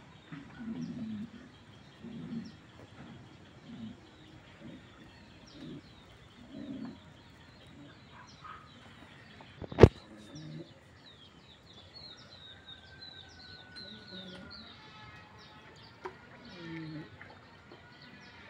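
Birds chirping and calling, with quick high chirps crowding together in the second half and low calls scattered through the first. A single sharp knock a little past halfway is the loudest sound.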